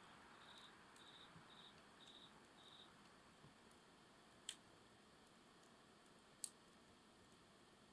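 Quiet campfire with a faint steady hiss and two sharp pops of burning wood, one about halfway through and one a couple of seconds later. Early on come five short high chirps in an even rhythm, about two a second.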